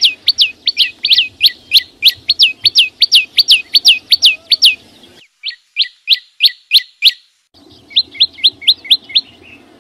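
A chim sâu xanh, a small songbird, singing a rapid run of loud, high, sharp notes, each sweeping down in pitch, about three a second, with two short pauses after about five and seven seconds.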